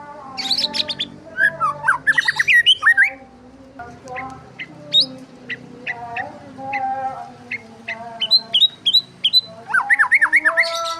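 Songbirds chirping and squawking in quick runs of sharp, sweeping calls, thickest about half a second to three seconds in and again near the end, with single chirps in between, over steady held tones underneath.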